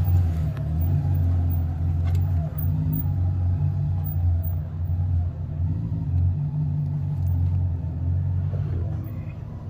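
Steady low engine-like rumble, with a few faint clicks.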